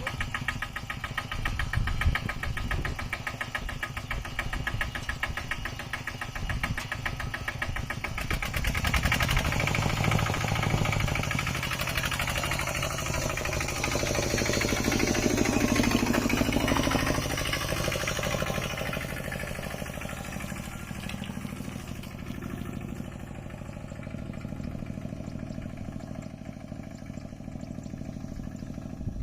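Mini tractor's engine running with a rapid, even firing beat. It grows louder through the middle and eases off toward the end.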